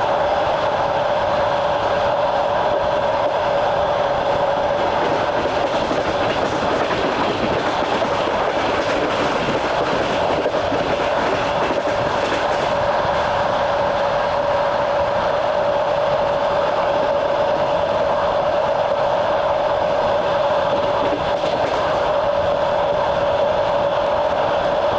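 Passenger train running steadily, heard from aboard: the even rumble of wheels on the rails with a steady whine over it.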